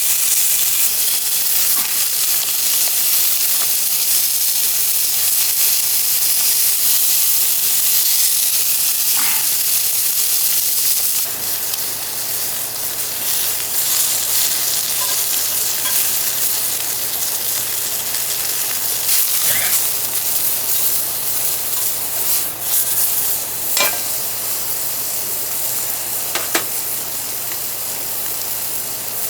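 Food sizzling in a pan: a steady hiss with a few faint clicks. It gets a little quieter about eleven seconds in.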